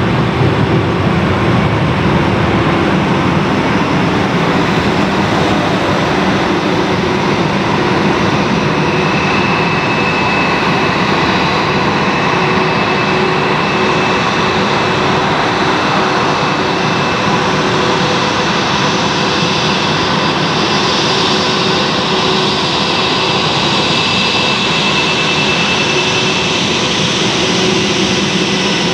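Jet engines of a Lufthansa Airbus A321-200 running steadily at idle, a loud even rush with a faint whine through it.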